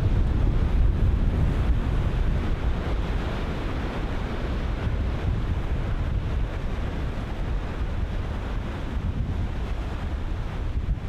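Ocean surf breaking and washing in a steady wash of noise, with wind buffeting the microphone as a low rumble underneath.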